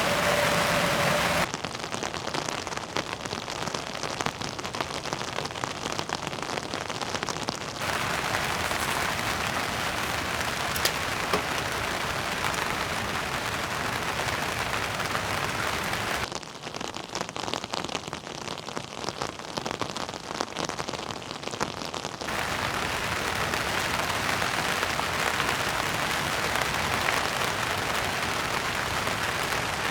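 Heavy rain falling steadily, its texture and loudness shifting abruptly several times. A steady humming tone stops about a second and a half in.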